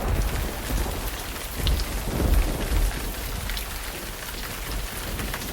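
Steady rain hissing, with low rumbles of thunder that swell a few times, slowly fading out.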